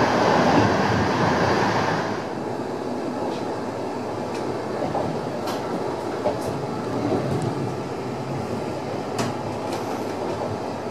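Passenger train running, heard from inside the carriage: a steady rumble of wheels on rail. It is louder and hissier for the first two seconds, while a freight train passes close alongside, then drops to a lower rumble with occasional sharp clicks from the wheels.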